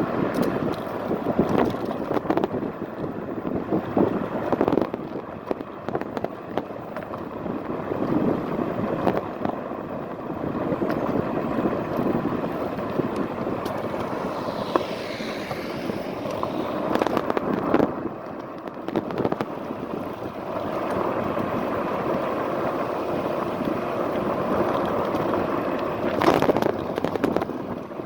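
Riding noise from a fat-tyre electric scooter, picked up by a phone on a handlebar mount: a steady rush of wind and road noise, with a few sharp knocks as the scooter goes over bumps.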